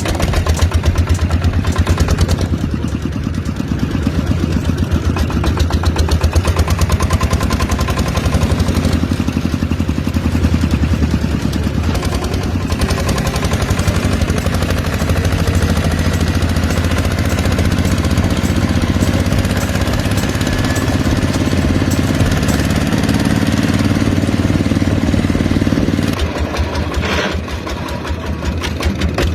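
Miniature engine of a DIY water pump running steadily with a rapid firing beat; near the end its level dips for a moment, then rises again.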